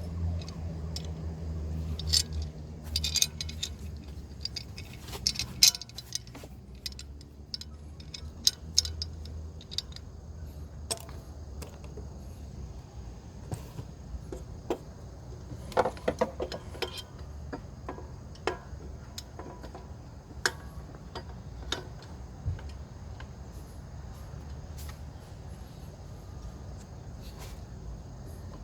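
Metal hand tools and parts clinking and rattling in a series of sharp, irregular clinks over a low steady hum.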